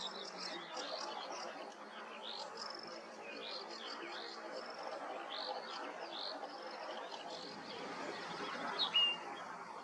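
Common linnet twittering: a rapid run of short, high, sweeping chirps repeated throughout, over a steady background hiss, with one louder sharp note about nine seconds in.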